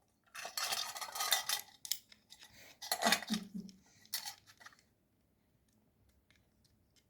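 Small dishes and utensils clattering and clinking as they are handled, in three bursts over about the first five seconds.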